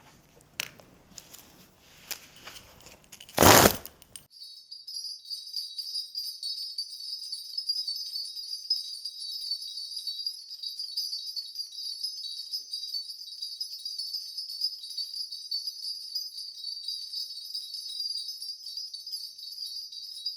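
A Korean shaman's ritual bell rattle (mugu bangul, a cluster of small brass bells on a handle) shaken continuously from about four seconds in, a dense unbroken jingling, as the shaman begins calling up a reading. Before it, a few light clicks and a short loud thump just before the jingling starts.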